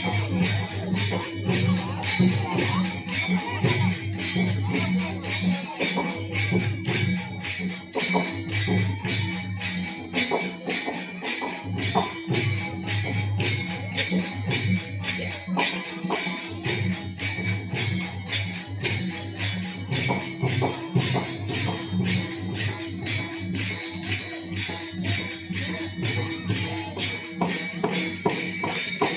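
Devotional bhajan accompaniment: hand cymbals (taal) jingling in a fast, even beat throughout, over low sustained tones.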